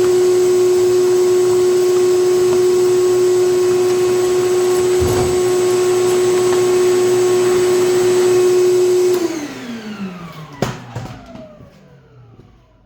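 Shop vacuum motor running steadily with a high whine, switched off about nine seconds in and winding down with a falling pitch. A sharp knock comes about a second after it stops.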